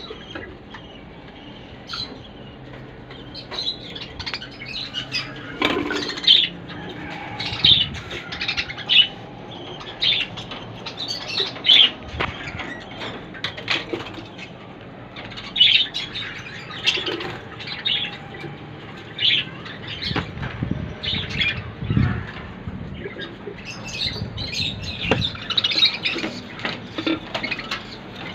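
Budgerigars chirping in many short, sharp calls throughout, with wing flapping and a few dull knocks, such as birds moving about a cage.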